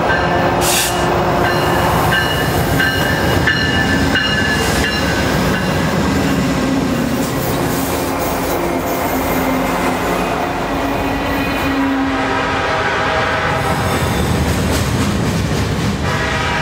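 Train rolling past on the rails: a steady loud rumble of wheels, with thin high squealing tones coming and going.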